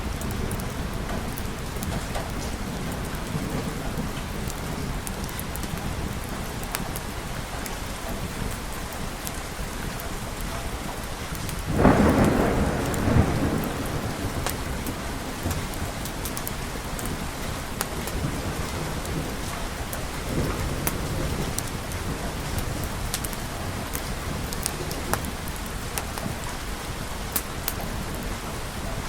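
Steady rain with scattered sharp crackles, and a thunderclap about twelve seconds in that rumbles on for a couple of seconds. A fainter roll of thunder follows later.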